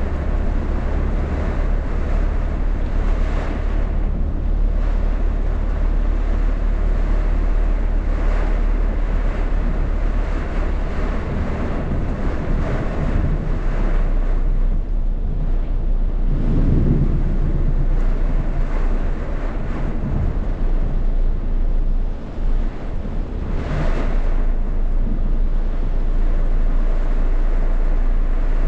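Rainstorm: heavy rain and gusting wind, with wind rumbling on the microphone.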